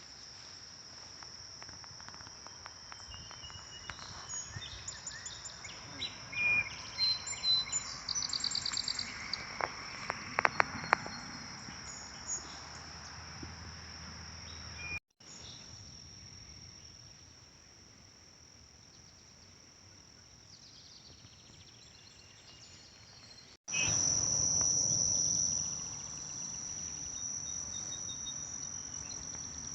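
Insects making a steady high-pitched drone, with scattered bird chirps in the first half. The sound breaks off abruptly twice, at the cuts between clips, and is louder in the last few seconds.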